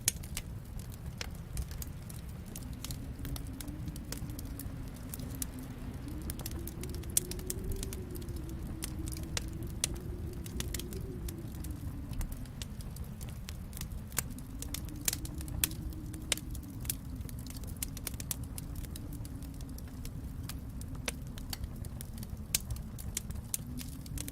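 Wood fire in a fireplace crackling, with irregular sharp pops and snaps scattered throughout over a steady low rumble that slowly swells and fades.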